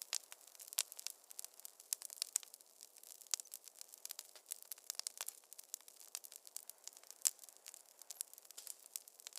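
Wood fire crackling in a fireplace: dense, irregular sharp pops and snaps over a faint hiss, with no low rumble.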